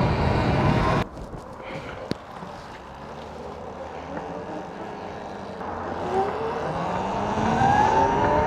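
Electric bike motor whine over wind and road noise. About a second in it drops suddenly to a quieter stretch with a single click; from about six seconds a whine rises in pitch and grows louder as the motor speeds up.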